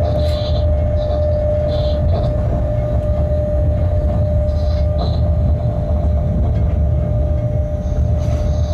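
Freight locomotive heard from inside the cab while the train runs along the track: a steady low rumble with a constant hum, and a few short high squeaks near the start and about halfway.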